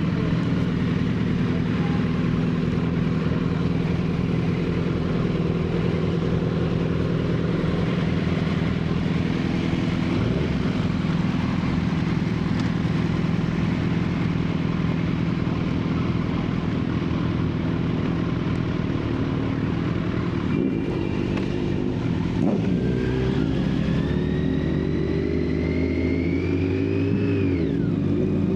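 Sport motorcycle riding at steady speed, its engine running evenly under wind and road noise. About two-thirds of the way through the engine note climbs as it accelerates, then drops sharply near the end.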